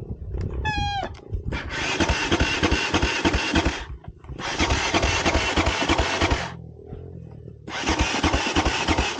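Dirt bike being cranked over three times in a row, each try lasting about two seconds with rapid chugging pulses, and the engine never catching. A branch had knocked the kill switch off.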